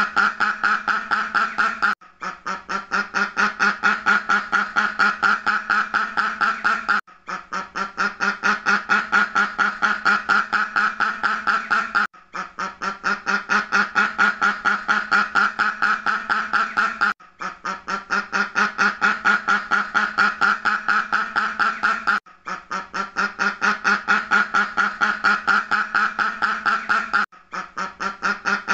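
A duck quacking in a rapid, even run of many quacks a second. The run breaks off briefly about every five seconds and starts again, building quickly back to full loudness, like the same recording looped.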